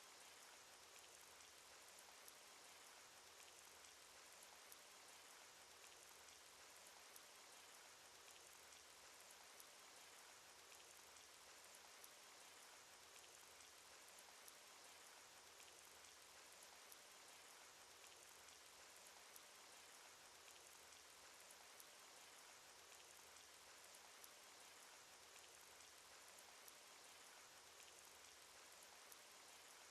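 Cartoon rain sound effect: a steady, quiet patter of rain with many small drop ticks scattered through it.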